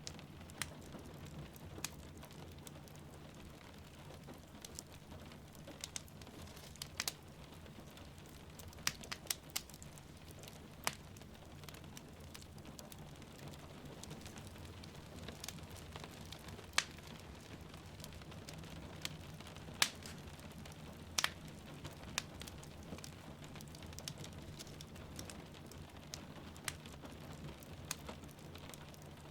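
Wood fire crackling, with sharp irregular pops every second or so, over a steady hiss of rain.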